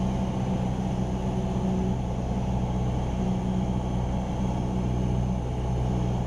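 Cessna 172R Skyhawk's four-cylinder Lycoming engine and propeller droning steadily in flight, heard from inside the cockpit.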